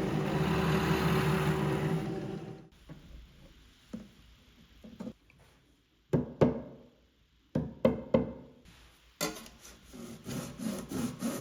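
A power tool runs steadily and stops about two and a half seconds in. Several sharp knocks of wood on wood follow. Near the end comes a fast, rhythmic back-and-forth rasping on wood.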